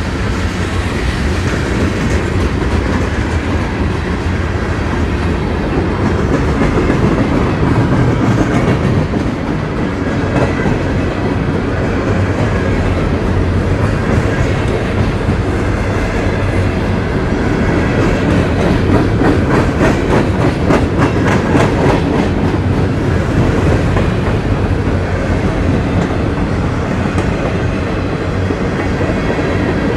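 Norfolk Southern freight train rolling past close by: a steady heavy rumble of cars on the rails, with wheels clacking over rail joints. The clacks are sharpest and most distinct a little past the middle.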